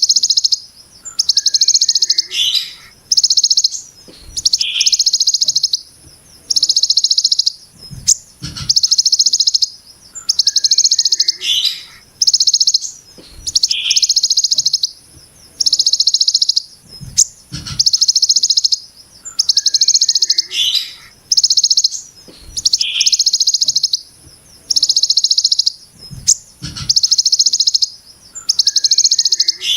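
Songbird repeating the harsh, rapid buzzing 'brem' shot of the ciblek gunung, in bursts about a second long with short gaps between them, some gaps holding a brief falling note. A low thump comes about every eight or nine seconds.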